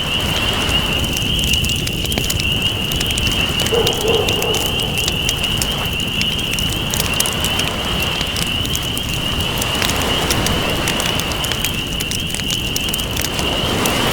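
Campfire crackling with frequent sharp pops, over slow swells of ocean waves washing in. A steady high-pitched trill sits above it throughout.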